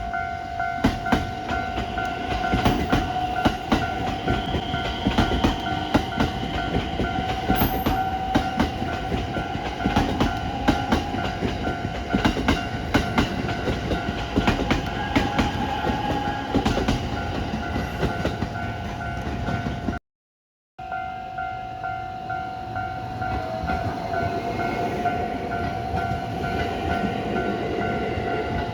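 A train running past a level crossing, its wheels clacking over the rail joints, while the crossing's warning bell rings steadily. The sound cuts out completely for under a second about twenty seconds in, then the bell and the train noise carry on.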